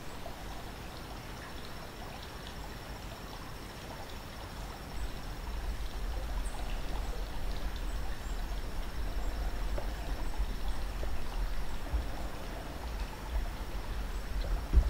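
Outdoor ambience: a low rumble that grows louder about five seconds in, a faint steady high-pitched trill, and a few light ticks, with one sharp knock near the end.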